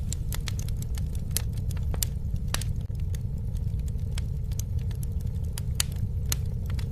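Campfire burning, with irregular sharp crackles and pops from the wood over a steady low rumble of flames.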